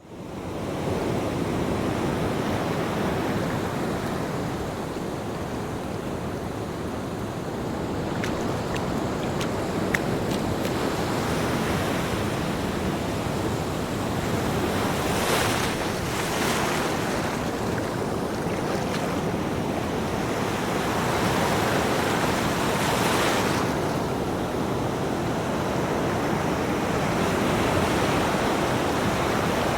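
Ocean waves surging and washing, a steady rushing with swells that rise and ease, brighter hissing surges about halfway and again near the end.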